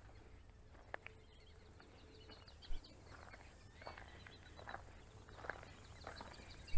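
Quiet outdoor ambience of insects trilling in fast, even ticks and birds chirping here and there, mostly in the second half. A few small clicks, the loudest a brief knock between two and three seconds in.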